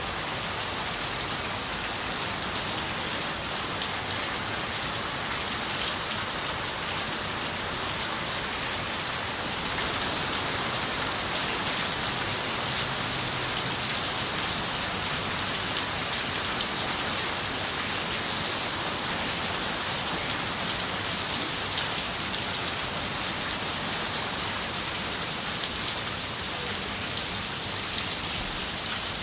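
Steady rain falling on a window pane, with a few separate drop taps. It gets a little heavier about ten seconds in.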